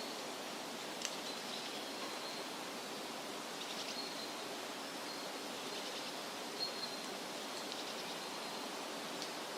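Steady rustle of wind through leafy trees, with short, high bird calls and chirps every couple of seconds.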